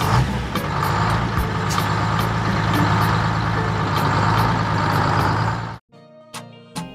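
Diesel tractor engine running steadily with a deep drone, cutting off suddenly near the end; light music follows.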